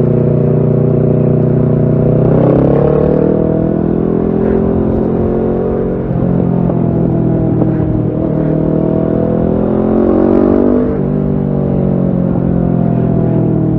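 Kawasaki Ninja 650 parallel-twin engine running through a Shark full exhaust system while riding. The engine note climbs about two seconds in and eases off, then climbs again and drops suddenly about eleven seconds in.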